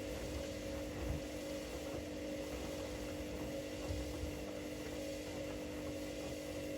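Two domestic washing machines running mid-cycle: a steady motor hum with a low, uneven rumble beneath it.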